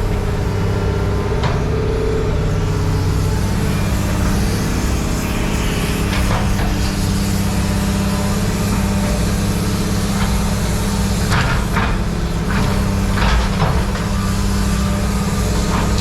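An engine running steadily, with a few sharp metallic clanks from about six seconds in.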